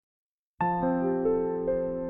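Slow, soft background music begins about half a second in: a keyboard chord, then single sustained notes added roughly every half second.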